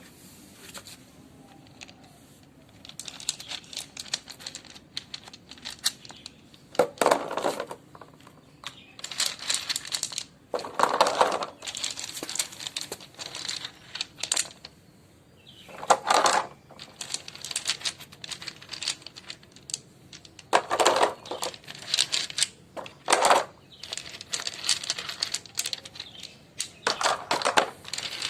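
Small stones clicking and clattering as they are handled and dropped into a toy truck, in irregular bursts with several louder rattling pours.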